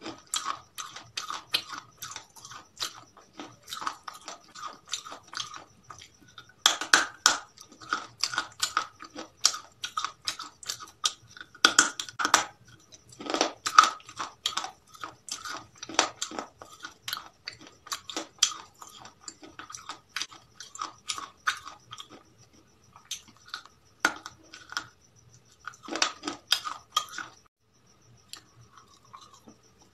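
A person chewing crispy fried chicken: irregular crackling crunches of the coating, with louder crunchy bites in clusters every few seconds.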